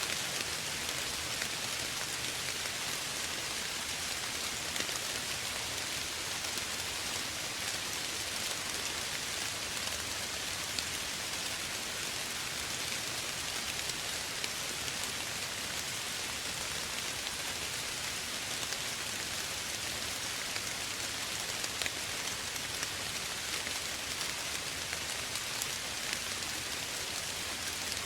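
Steady soft rain falling on a surface, an even hiss with scattered faint drop ticks.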